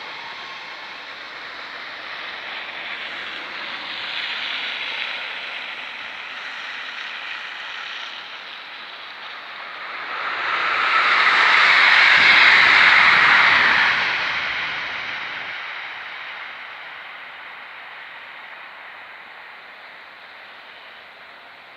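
A train passing through the station: a rushing noise that swells to a peak about two-thirds of the way through, then slowly fades away.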